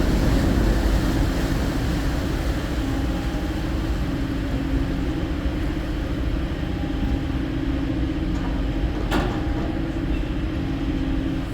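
A vehicle's engine running steadily: a continuous low rumble with a steady hum, and one sharp click about nine seconds in.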